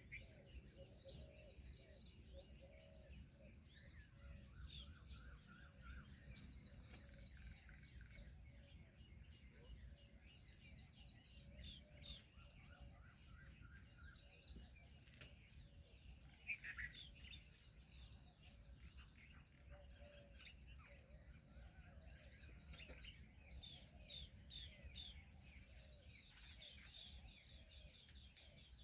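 Small birds chirping and twittering, with a few sharper, louder notes in the first seven seconds and a short falling call about halfway through.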